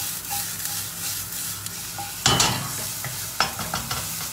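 Onions, lap cheong sausage and chopped garlic sizzling in a hot frying pan while being stirred with a wooden spatula. About two seconds in comes a louder burst of scraping and clatter, then a few light taps of the spatula against the pan.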